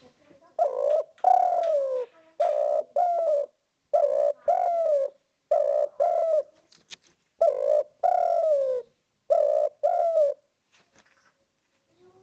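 Spotted dove (derkuku) cooing: six phrases of two coos each, the second coo often longer and sliding down in pitch, repeated at an even pace and pausing near the end.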